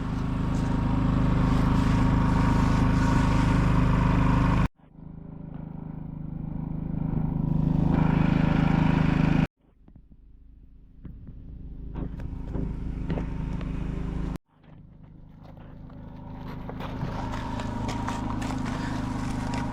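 A motor running steadily with a hiss over it, in four pieces that each cut off abruptly.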